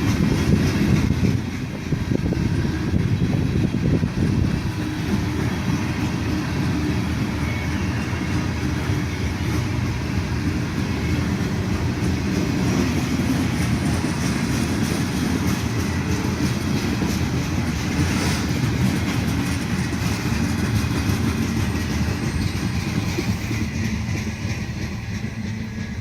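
Norfolk Southern freight train's cars rolling steadily past, with a continuous rumble of wheels on the rails and some clattering.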